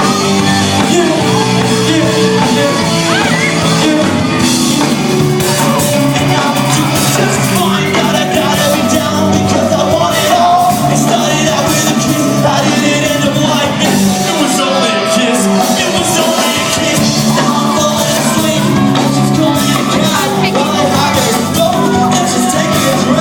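Rock band playing live, with a lead voice singing over the band at a steady loud level.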